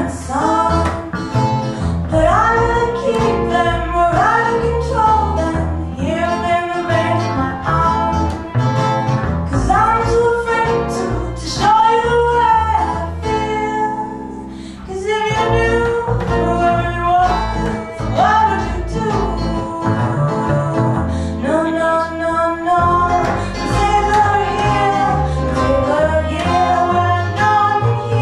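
Live band playing a song: sung vocals over guitar, with a short break in the singing about halfway through.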